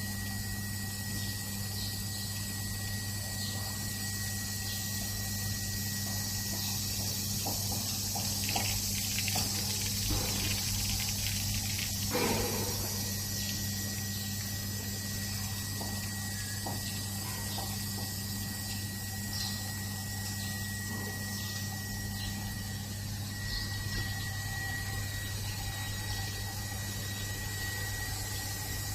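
Automatic car wash machine running: a steady pump hum under an even hiss of water spray, with a thin steady whine and a few faint knocks about a third of the way through.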